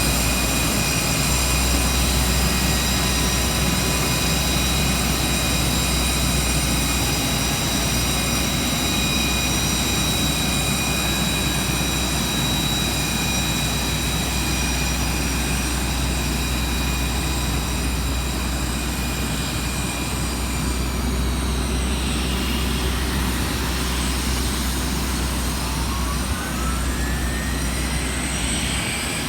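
Airliner's jet engines running steadily, with a rushing noise and several high whines. About three-quarters of the way through the whines drop away and new ones begin to rise in pitch, the engines speeding up.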